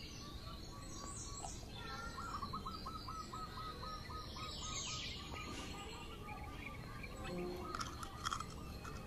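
Birds chirping outdoors: one bird gives a fast run of repeated short chirps for several seconds, with other high chirps around it over a steady background noise. A few light clicks come near the end.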